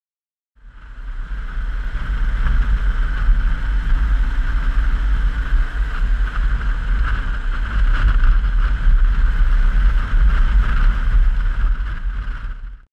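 Wind buffeting a GoPro's microphone on a moving Yamaha XT660Z Ténéré motorcycle, a heavy rushing rumble with the bike's engine and road noise underneath. It fades in over about a second and cuts off sharply at the end.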